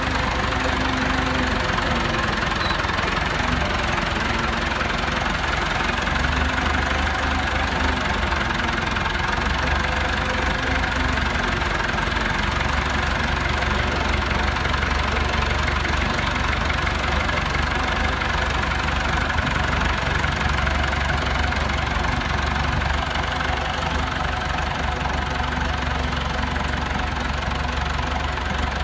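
Tow truck's engine running steadily, a low, even drone with no change in speed.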